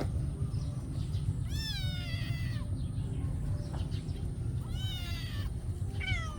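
Cats meowing: a long meow that falls in pitch about a second and a half in, a second near five seconds, and a short one at the end, over a steady low rumble.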